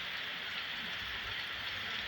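Steady rain falling, an even hiss with no distinct drops or impacts.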